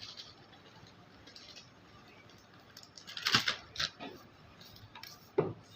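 Kitchen utensils and dishes clattering: two sharp clatters a little over three seconds in, then a single duller knock near the end.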